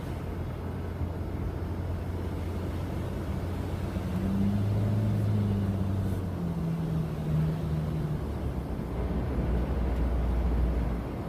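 Car driving, heard from inside the cabin: a steady low rumble of engine and road noise. The engine hum shifts pitch a few times around the middle and settles lower near the end.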